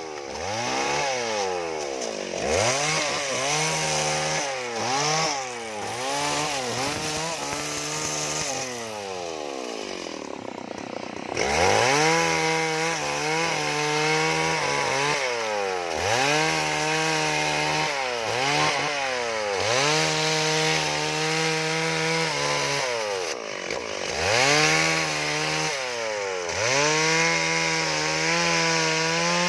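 Two-stroke chainsaw carving wood, revving up and dropping back again every second or two. It runs lower and quieter for a couple of seconds about a third of the way in.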